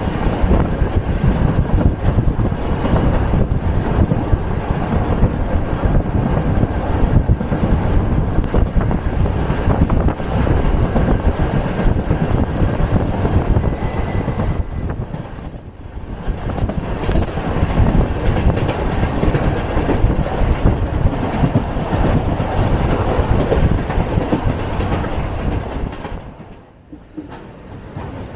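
Suburban electric train running along the line, a loud steady rumble of wheels on rails heard from inside the carriage. It eases off briefly about halfway through and again near the end.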